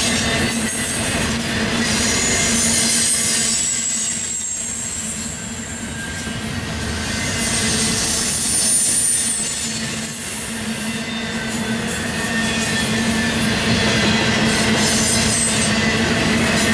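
Double-stack intermodal well cars of a freight train rolling past, a steady rumble of steel wheels on the rails. Thin high-pitched wheel squeals come and go over it.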